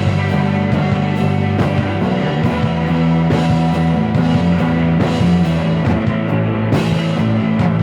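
Instrumental rock music: sustained guitar and bass with a steady drum beat, no singing.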